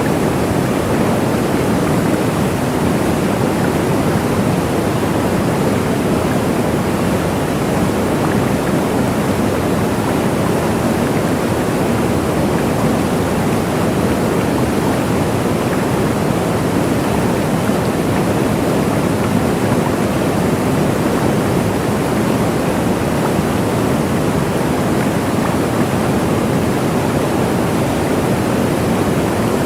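Waterfall: a steady, unbroken rush of falling water, deepest and fullest in the low-middle range, with no changes.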